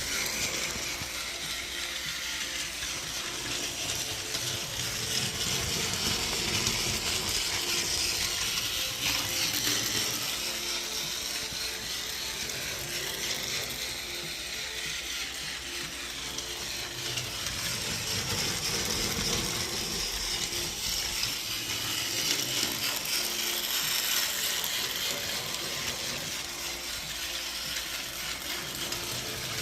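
Battery-powered Tomy Plarail Thomas toy train running on plastic track, its small electric motor and gears whirring steadily. The pitch of the whirr rises and falls briefly around the middle.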